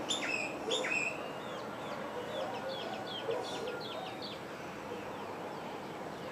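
Wild birds calling. Two loud, sharp calls come in the first second, followed by a quick series of short, falling chirps.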